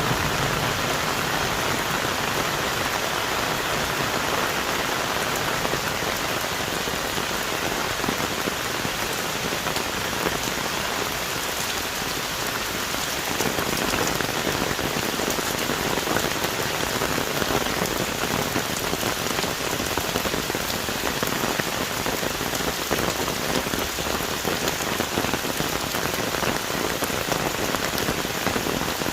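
Heavy tropical rain falling on forest trees and foliage: a dense, steady hiss of pattering drops.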